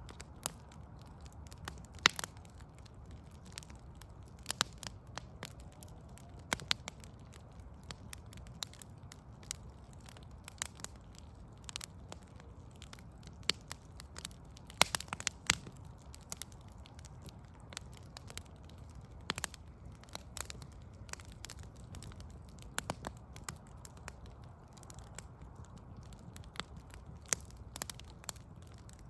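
Backyard log fire crackling, with irregular sharp pops and snaps of varying loudness, a few a second, over a steady low rumble.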